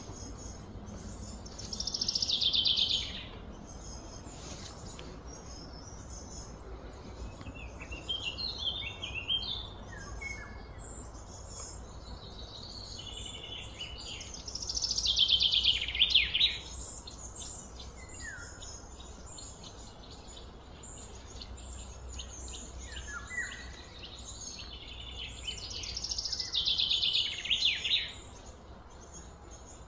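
Wild birds singing: one bird gives a loud, rapid song phrase three times, about twelve seconds apart, over scattered shorter chirps, with a steady low hum underneath.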